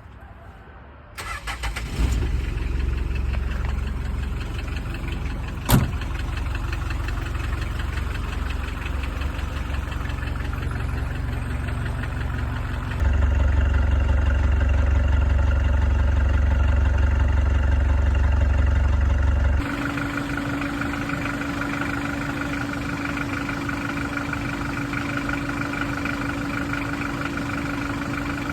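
Hyundai Galloper's 2.5-litre turbodiesel cold-starting in frost: the starter cranks briefly about a second in, the engine catches and runs with a diesel clatter, with one sharp click a few seconds later. About halfway through it runs louder for several seconds, then settles back to a steadier idle with a steady whine on top.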